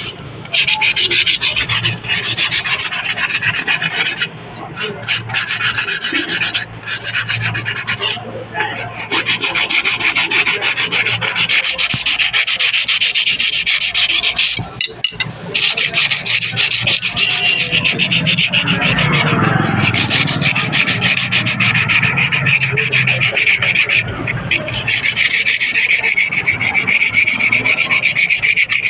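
Rust being scoured off a steel knife blade with an abrasive, in fast continuous rubbing strokes, with a few short pauses.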